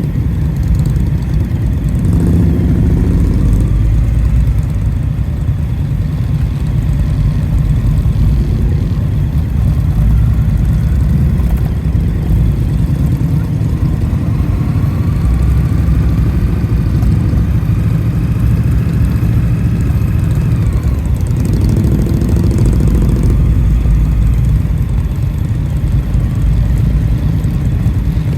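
Indian motorcycle's V-twin engine running steadily through a ride, a continuous low rumble with a faint rising whine about halfway through.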